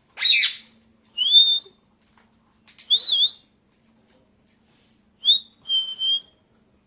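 Pet parrot giving about five short whistled calls with gaps between them. The first call is harsh and screechy; the rest are clear whistles, one rising and one wavering.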